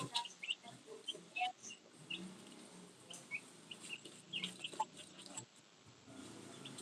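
Faint bird calls, short chirps repeating irregularly over low background noise.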